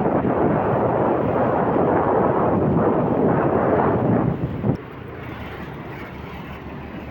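Loud rushing vehicle noise with wind buffeting the microphone. It cuts off abruptly with a click nearly five seconds in, leaving a quieter steady rumble.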